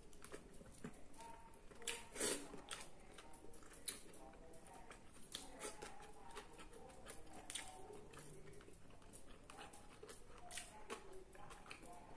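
Close-up eating sounds: a man chewing roast chicken and rice with his mouth, lip smacks and wet mouth clicks coming irregularly, a few every second, loudest about two seconds in.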